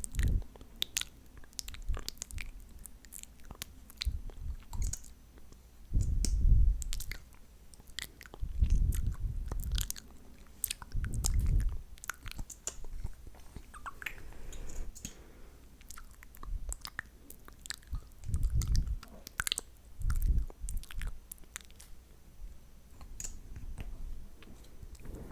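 Close-miked ASMR mouth sounds: many wet, sticky clicks and smacks of lips and tongue, like pretend-eating lip gloss, with several low, dull bumps a second or so long scattered through.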